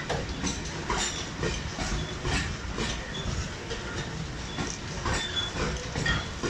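Open freight wagons rolling past on the track: a steady rumble of steel wheels with irregular clacks over rail joints and a few brief high squeals of wheel on rail.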